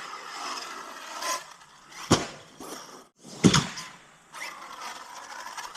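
Arrma Notorious 6S BLX RC stunt truck: its brushless motor whines, rising and falling in pitch, with two sharp hard impacts about two seconds in and about three and a half seconds in as the truck hits the ground after a jump. The motor whines again near the end.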